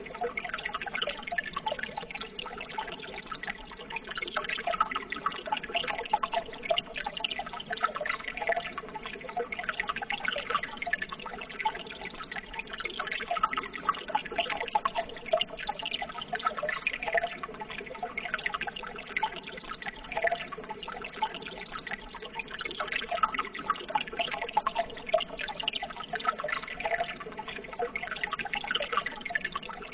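Running water trickling steadily, with many small splashes and drips.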